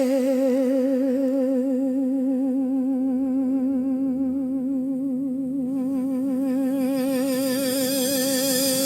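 A singer holding one long sung note with steady vibrato on the last word of the hook, 'feds', with no beat underneath. The note stays at one pitch throughout and grows brighter toward the end.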